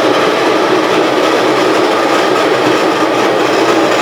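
Electric coffee grinder running, grinding coffee beans with a loud, steady whir.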